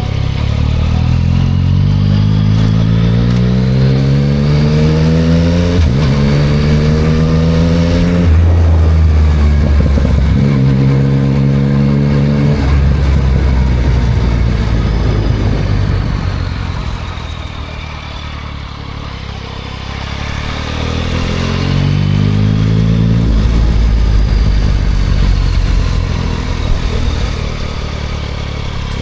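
2024 Yamaha MT-09 SP's inline-three engine through a Spark full exhaust, accelerating with rising pitch and shifting up about six and eight seconds in. It eases off and quietens mid-way, then pulls up through the revs again about twenty seconds in.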